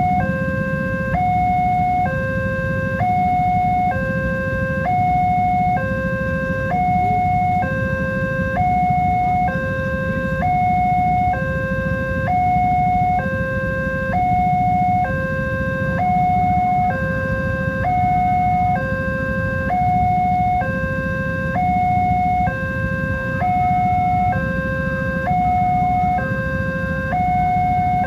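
Level crossing warning alarm sounding continuously: an electronic two-tone signal alternating between a higher and a lower tone, each held about a second, over a steady low rumble.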